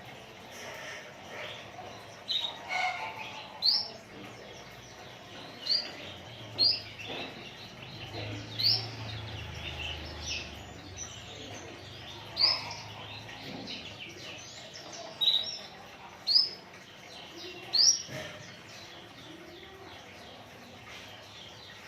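White-eye (pleci) calling: about a dozen short, sharp, upward-sweeping chirps at irregular intervals, with fainter twittering in between.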